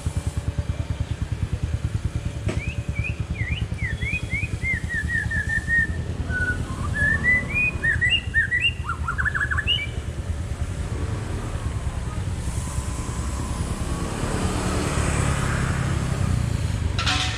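A small songbird chirping in quick runs of short, sliding notes for several seconds, over a steady low rumble. Near the end a vehicle passes, growing louder.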